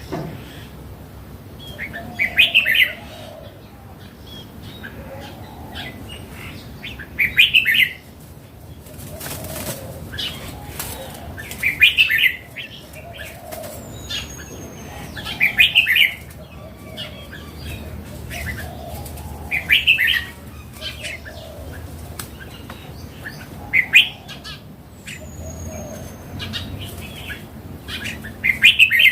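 Red-whiskered bulbul singing short, loud phrases, one about every four seconds, seven in all.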